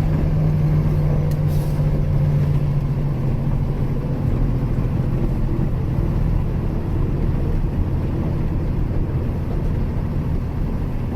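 Engine of a 26-foot Penske moving truck running steadily as the truck drives, a low even hum. One tone in the hum is strong over the first few seconds and then fades.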